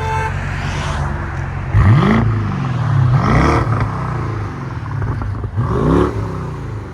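BMW 650i's 4.4-litre twin-turbo V8 through an exhaust with the rear mufflers deleted (resonator still in place), idling and then blipped three times: each rev climbs quickly and drops back to idle, about two, three and six seconds in.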